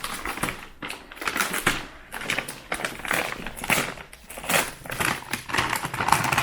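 Packaging crinkling and rustling as a wrapped packet is torn and unwrapped by hand, in a run of irregular scratchy bursts.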